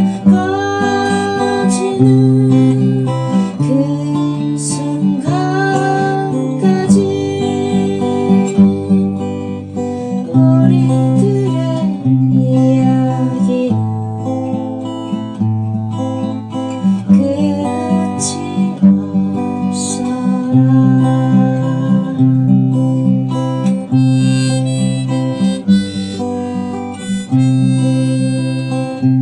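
Acoustic guitar playing a steady rhythmic accompaniment, with a melody instrument carrying the tune in long, sliding notes over it: an instrumental passage of a folk song.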